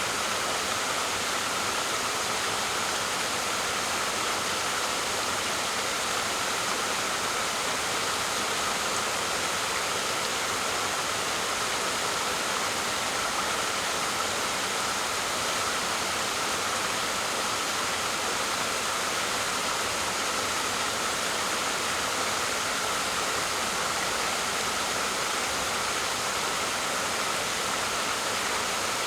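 Waterfall: a steady, unbroken rush of falling water, hissy rather than deep.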